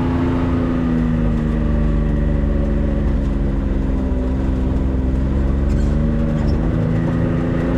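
Vehicle engine running at a steady cruise, an even drone whose pitch sags and recovers slightly a few times, as heard from inside the moving vehicle.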